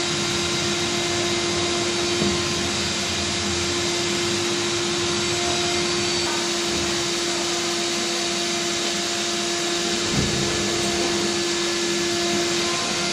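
An electric blower motor runs steadily with a constant whine over a rushing hiss, like a shop vacuum. There is a short knock about two seconds in and a duller thump about ten seconds in.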